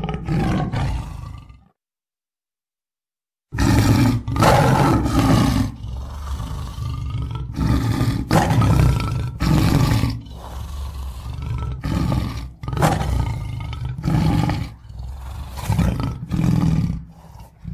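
Tiger calling: a short rough call that cuts off suddenly, a brief gap of silence, then a long run of loud, rough calls in quick succession, the louder peaks coming about once a second.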